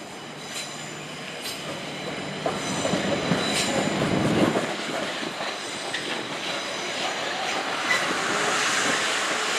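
Class 450 Desiro electric multiple unit running through the station, its wheels clattering over the rail joints, growing louder over the first few seconds.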